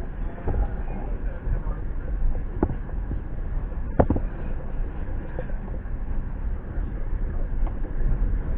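Low steady rumble of a passenger train standing at the platform after arrival, with a sharp knock about four seconds in and a fainter one a little before it.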